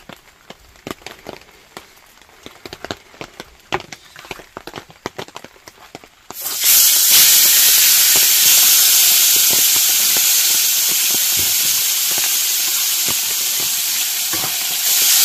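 Seasoned catfish fillets going into very hot oil in a frying pan: a few small clicks of handling, then a sudden loud sizzle about six and a half seconds in as the first fillet hits the oil, frying steadily and growing louder near the end as a second fillet goes in.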